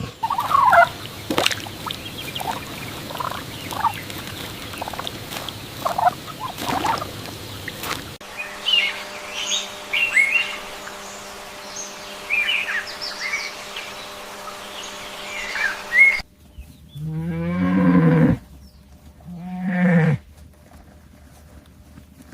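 A run of short animal clips. First come scattered clicks and short calls, then high chirping birdsong. About three-quarters of the way in, cattle moo twice in long low calls, the loudest sounds here.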